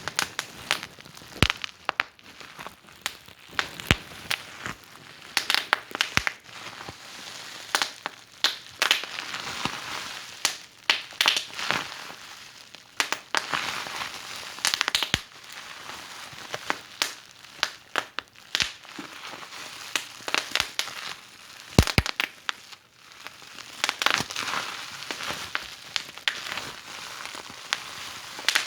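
Wood fire in a fireplace crackling, with irregular sharp pops and snaps over a soft hiss of burning.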